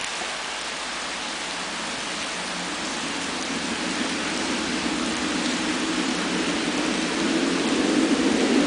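Steady rain hissing. From about three seconds in, a low rumble rises slowly and grows louder toward the end: a train approaching.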